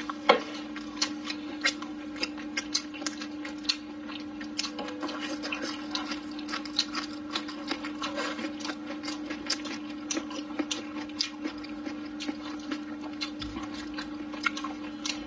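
Close-up chewing of braised food: frequent short, sharp wet mouth clicks and smacks, several a second, over a steady low hum.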